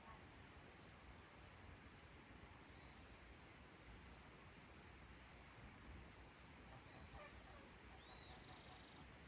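Faint countryside evening ambience: a steady high hiss with a small, high chirp repeating about every half second, and a few faint distant animal calls near the end.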